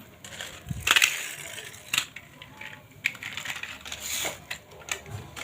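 Toy cars clacking and rattling as they are handled, with irregular sharp knocks, the loudest about one and two seconds in.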